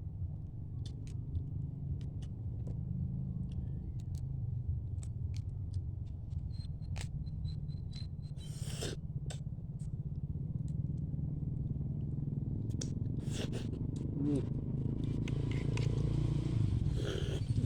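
Sharp clicks and cracks of crab shell being broken apart and eaten by hand, over a steady low engine rumble that grows louder near the end as a motor vehicle comes closer.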